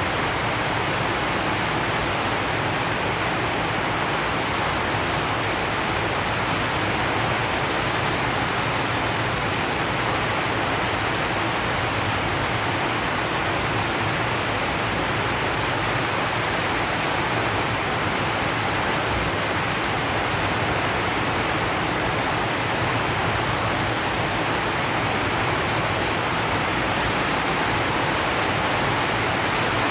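Rain falling on a zinc sheet roof, a steady, unbroken hiss.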